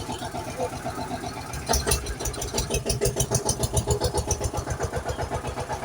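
Vehicle engine running with a fast, even chugging pulse, getting louder about two seconds in and easing back after a few seconds.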